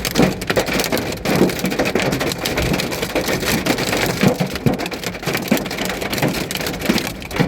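A severe hail storm: a dense, constant clatter of hailstones striking hard surfaces, mixed with heavy rain.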